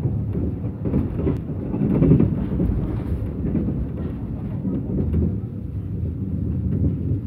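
Mugunghwa-ho passenger train running, heard from inside the carriage: a steady low rumble of wheels on the rails, with a few light clicks about a second in.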